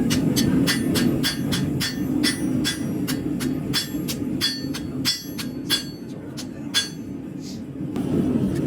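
Hammer blows on a carbon-steel knife blade against an anvil, about three ringing strikes a second, stopping about seven seconds in. A steady low roar runs underneath.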